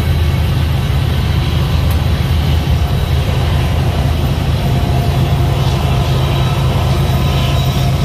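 Freight train's covered hopper cars rolling past close by, a loud, steady low rumble of wheels on rail, with the mid-train diesel locomotive drawing near at the end.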